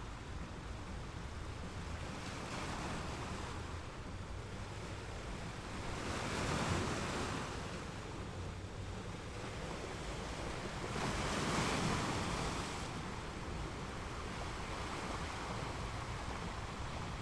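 Ocean waves washing onto a shore: a steady rush of surf, with two waves breaking louder, one about six seconds in and another about eleven seconds in, each swelling and fading over a second or two.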